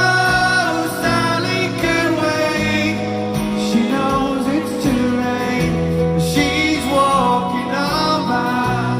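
Live rock band playing guitars, bass and drums under sung vocals carrying the chorus of the song, with long held notes.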